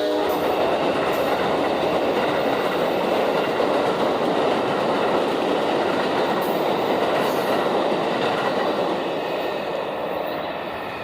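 Amtrak passenger train, Train 91, passing close by: a steady loud rush of wheels on the rails that eases off slightly near the end. The last note of its horn cuts off just at the start.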